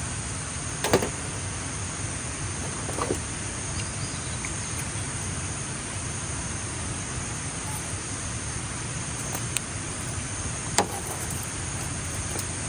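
Outdoor ambience dominated by insects: a steady high-pitched chirring drone over a low steady rumble, with a few sharp clicks, the loudest about a second in.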